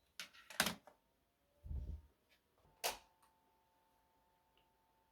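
A few short clicks and knocks, the sharpest a click about three seconds in, followed by a faint steady hum.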